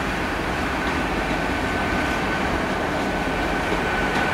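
Great Western Railway Intercity Express Train passing along the platform road, a steady rumble of wheels and running gear with a thin, steady high whine over it.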